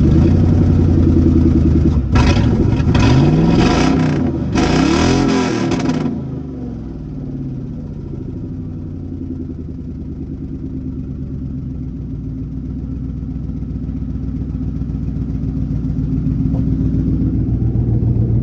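Ford Mustang 4.6-litre V8 running just after a jump start, revved in a few rising and falling bursts from about two to six seconds in, then settling to a steady idle. Its exhaust is blown off, so it runs loud.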